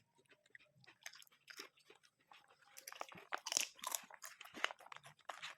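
Close-miked chewing and crunching of food: a quick run of short crisp clicks and mouth sounds, sparse at first and busier from about halfway through.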